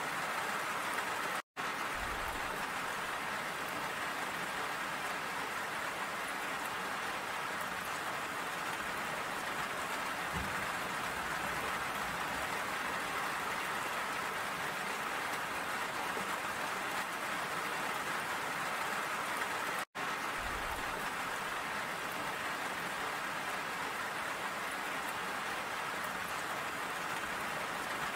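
Steady rain, an even hiss of many falling drops. It cuts out for an instant twice, about a second and a half in and again about twenty seconds in.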